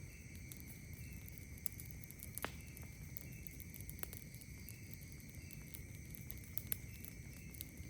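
Campfire crackling, with scattered sharp pops and a few louder snaps, over steady high-pitched trilling of night insects.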